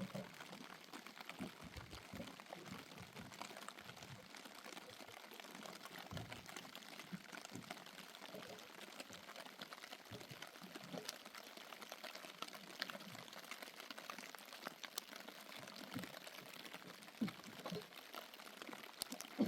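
Rain falling steadily: a fine patter of many small drops.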